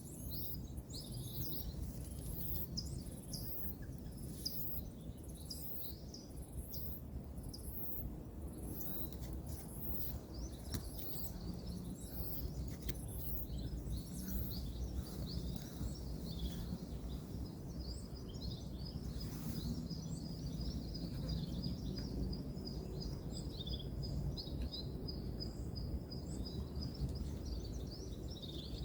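Birds chirping over a steady low rumble of distant road traffic, with a long, rapid trill through the second half.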